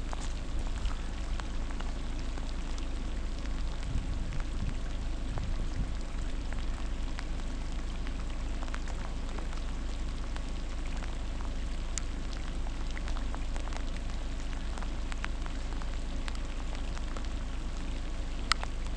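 Steady rain falling on lake water and the shore. Occasional sharp ticks of single drops land close by, the loudest just before the end.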